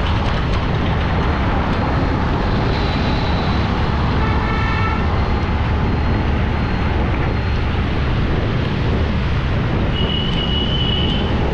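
Steady road and traffic noise from a drive through city traffic. A vehicle horn sounds about four to five seconds in, and a short high beep comes near the end.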